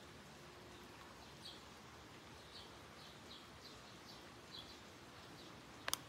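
A small bird giving short, high chirps about every half second over a faint, steady hiss of light rain. A sharp double click just before the end is the loudest sound.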